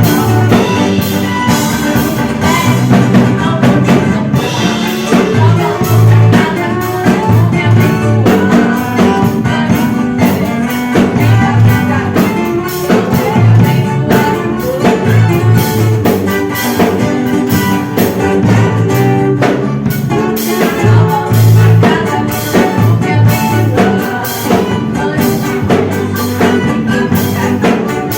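A live band playing a song at a soundcheck, with a drum kit, a pulsing bass line and guitar.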